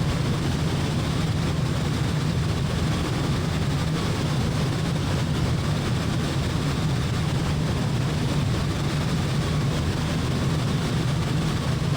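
Steady drone of a small piston airplane's engine and propeller in cruise with the throttle open, heard inside the cabin.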